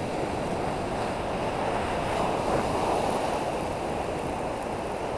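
Ocean surf washing in: a steady rush of waves that swells a little about two seconds in.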